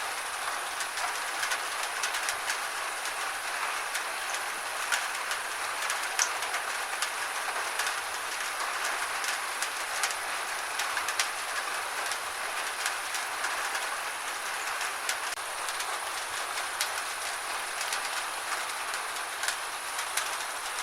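Gentle rain falling steadily, a constant hiss with many scattered sharp ticks of individual drops striking a hard surface.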